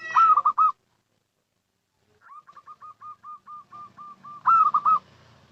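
Zebra dove (perkutut) cooing. A short burst of loud coos opens, then after a pause comes a fast run of soft staccato coos, about five a second, ending in a louder cluster of coos near the end.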